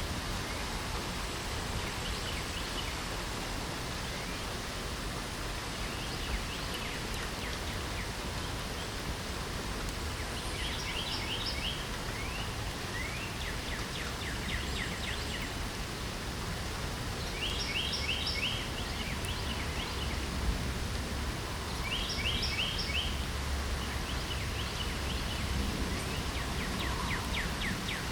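Steady rain hiss with a songbird singing short bursts of rapid repeated notes, returning every few seconds from about a third of the way in.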